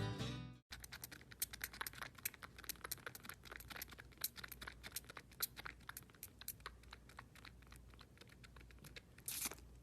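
Quick, irregular light clicks and taps, several a second, faint. Guitar music fades out at the very start, and there is a brief louder rustle about nine seconds in.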